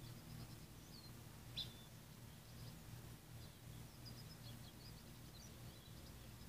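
Faint, scattered high bird chirps, with one sharper chirp about a second and a half in, over a low steady hum.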